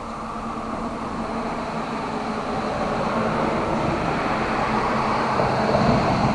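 Steady rain with a rushing rumble that swells over several seconds, loudest near the end, then starts to ease.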